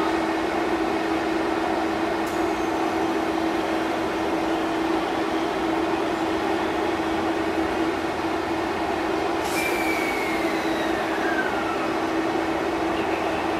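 Stationary JR E257 series electric limited express train humming steadily at the platform, with a steady droning tone. About nine seconds in, a brief high squeal falls in pitch over about two seconds.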